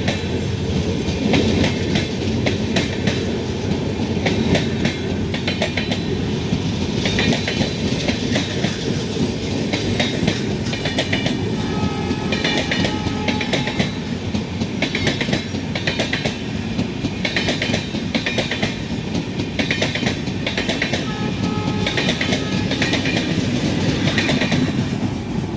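Passenger express train's coaches rolling by, a steady rumble with wheels clattering over rail joints in clusters every second or two.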